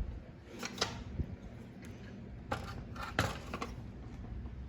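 Handling noise: a few scattered light clicks and knocks as the plastic box fans and their cords are moved about, the strongest a little after three seconds in.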